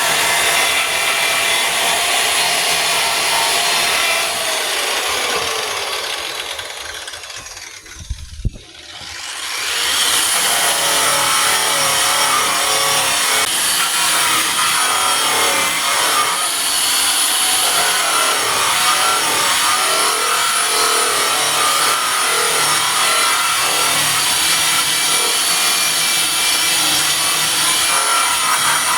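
Electric sander running with 80-grit paper on body filler, a steady grinding whir. About five seconds in the motor winds down with a falling pitch, there is a short knock near eight seconds, and the sander starts up again about ten seconds in and runs steadily on.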